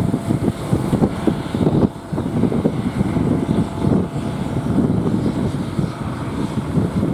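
Strong wind buffeting the microphone in uneven gusts, with the engine of a fishing boat putting out to sea running underneath.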